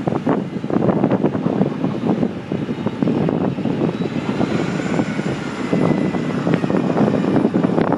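Continuous rattling and knocking from a handlebar-mounted phone as the bicycle rolls over the pavement, mixed with wind on the microphone.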